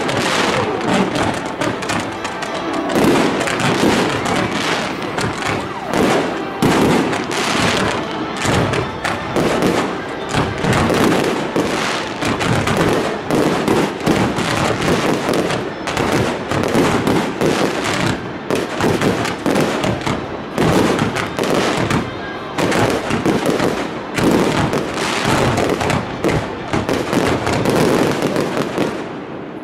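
Fireworks display: a continuous barrage of aerial shell bursts and crackle, with bangs following one another several times a second.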